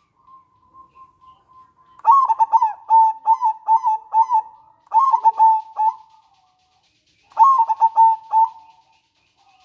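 Local zebra dove (perkutut) singing: three phrases of rapid, clipped coo notes, the first the longest, preceded by a faint thin steady note.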